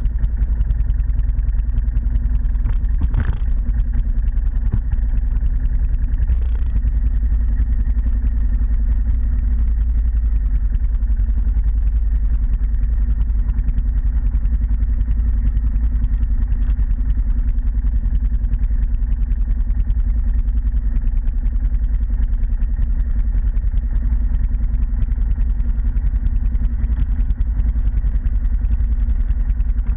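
ATV engine running steadily at a constant pitch, with two short knocks about three and six seconds in.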